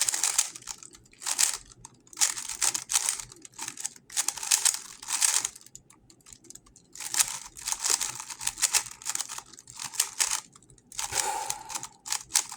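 GAN 11 M Pro magnetic speedcube being turned fast: bursts of rapid plastic clicking with short pauses between.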